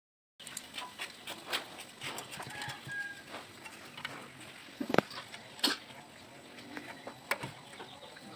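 A series of sharp clicks and knocks, loudest about five seconds in, with chickens clucking in the background.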